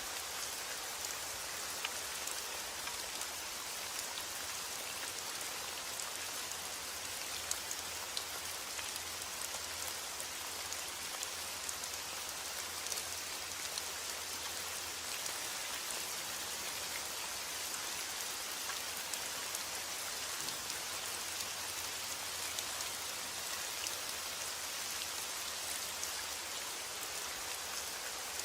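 Steady rain falling, with many small drop ticks on a surface over an even hiss.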